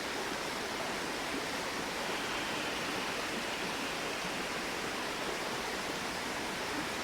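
A flowing river running steadily: an even, unbroken rush of water.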